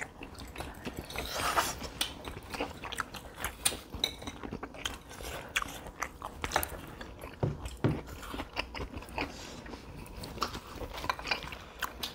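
People chewing and crunching food, with many short, irregular clicks and crackles of bites.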